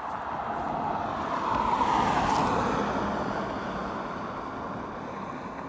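Road traffic: a vehicle passes close by, its noise swelling to a peak about two seconds in and then slowly fading.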